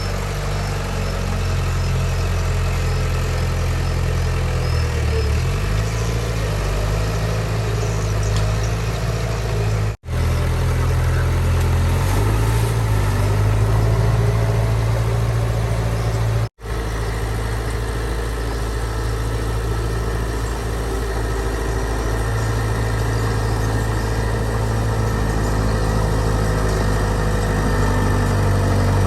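Heavy diesel engine of construction machinery running steadily with a low drone, its pitch shifting a little a few times. The sound cuts out for an instant twice, about ten and sixteen seconds in.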